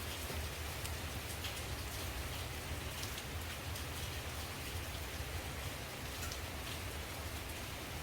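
Steady rain falling onto leaves, with scattered individual drops striking louder now and then.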